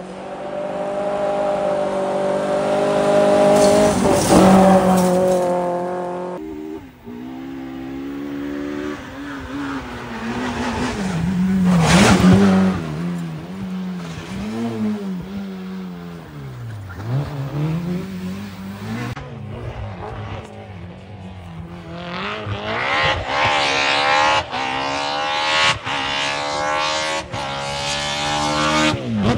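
Rally car engines at high revs: one car accelerating and passing with a loud peak, pitch falling and climbing through gear changes, then another accelerating hard with repeated rising sweeps near the end. The sound changes abruptly twice.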